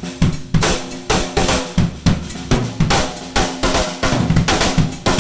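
Drum kit playing a steady beat of kick drum, snare and hi-hat hits over a sustained low note.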